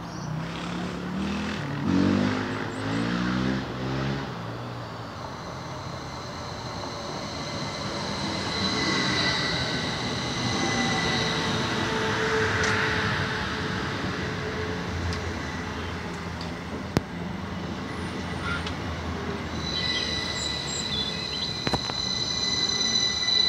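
Passenger trains running past a station platform: a red Class 333 electric multiple unit passes close, with steady high-pitched whining tones through the middle of its pass. Near the end a diesel multiple unit comes alongside, and high-pitched tones return.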